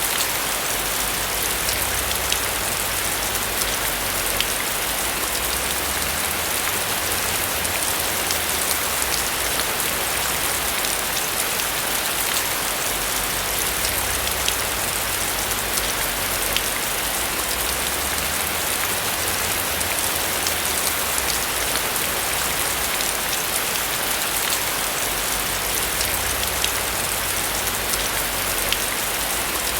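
Steady rain falling on a roof: an even hiss of rain with scattered sharper drop ticks.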